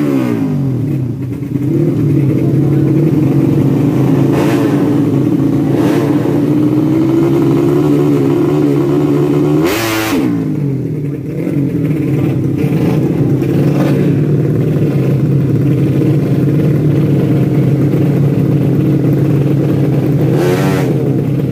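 Tuned four-stroke underbone drag motorcycle engines running loud and steady. Several times, most strongly about halfway through and near the end, a bike's note sweeps in pitch as it revs or goes past.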